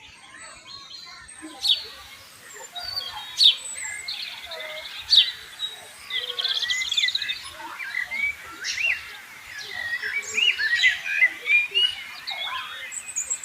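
A flock of aviary birds calling together, many chirps and twittering notes overlapping. Sharp, loud calls stand out about two, three and a half and five seconds in, and the chattering grows denser in the second half.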